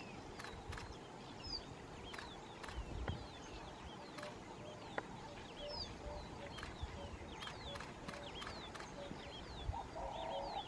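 Wild birds calling: many short high whistled notes, some sliding down and some up, over faint open-air background noise. From about halfway through, a short low note repeats about twice a second.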